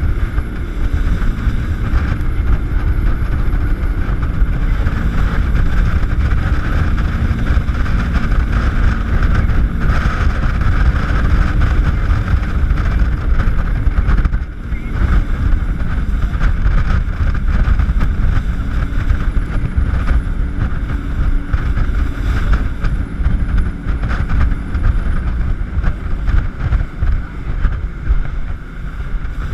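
Jet boat running at speed, its engine drone under heavy wind buffeting on the microphone and the rush of water.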